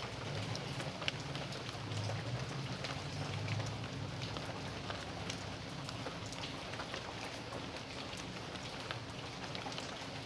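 Steady rain falling, with many individual drops ticking sharply as they hit. A low rumble sits under the rain for the first few seconds.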